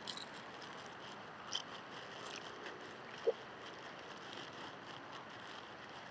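Soft irregular crunching footsteps on an icy path over a steady outdoor hiss, with one brief squeak about three seconds in.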